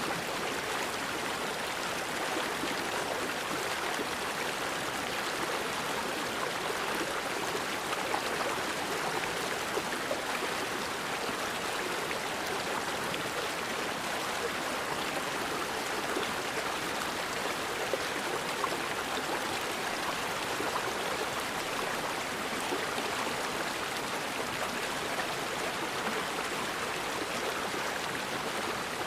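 Forest river flowing steadily, an even rushing of water.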